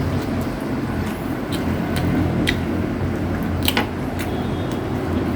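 People chewing rotisserie chicken close to the microphone, with a few short wet mouth clicks and smacks, the sharpest about three and a half seconds in, over a steady low hum.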